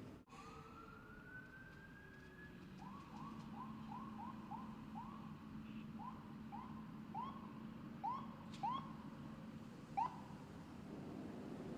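Faint emergency-vehicle siren: one rising wail at the start, then a string of short, irregular chirps, over a steady low hum.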